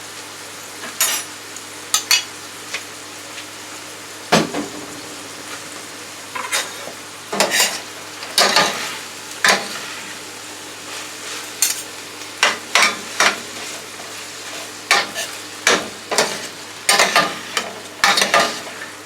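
Vegetables sizzling in oil in a frying pan while being stirred, a utensil scraping and knocking against the pan in irregular strokes over a steady sizzle.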